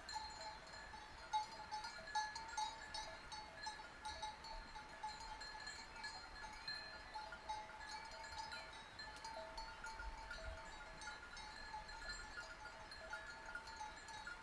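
Many sheep bells clinking and ringing in an irregular, overlapping jangle from a moving flock.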